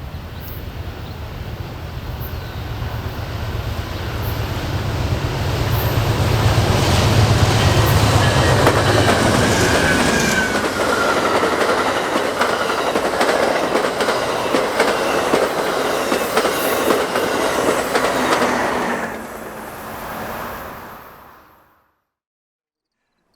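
A train passing close by. A diesel locomotive's engine rumble rises for the first ten seconds, then the rail cars roll past with a clickety-clack of wheels over the rail joints. The sound fades and then cuts off abruptly about two seconds before the end.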